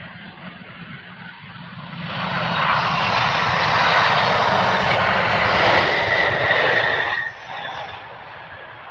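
Airliner's engines at takeoff power as the plane accelerates down the runway. The noise swells about two seconds in and stays loud with a high whine. It drops off sharply a little after seven seconds.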